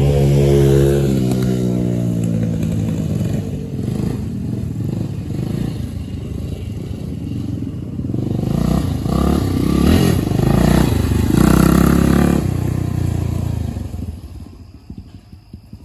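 Dirt bike engine running. The revs fall over the first couple of seconds, then rise and fall unevenly through the middle, and the sound drops away sharply near the end.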